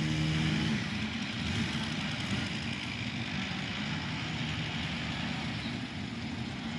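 Car engine idling, a steady low rumble heard from inside the car.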